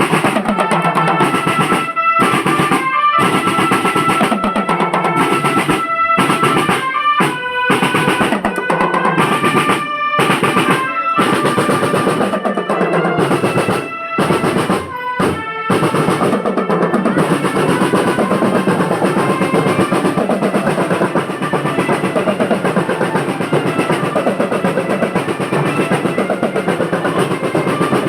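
School marching drum band playing: dense snare drum rolls and bass drum beats under a held melody line. The music breaks off abruptly for a moment several times in the first half, then carries on with the drums.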